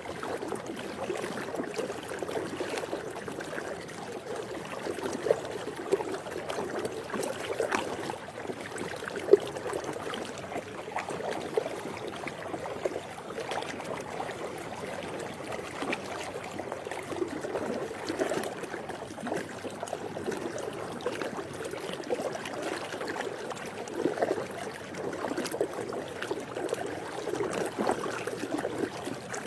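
Swimming pool water lapping and splashing: a continuous busy patter of small irregular splashes, with one sharper, louder splash about nine seconds in.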